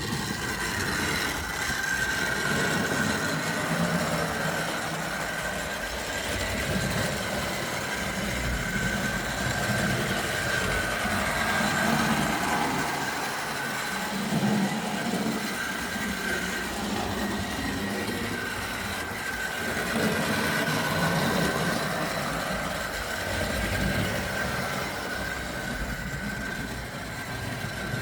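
Tri-ang OO-gauge model train running along the track: a steady high motor whine over a rumbling, uneven clatter of wheels on rail that rises and falls as it goes round.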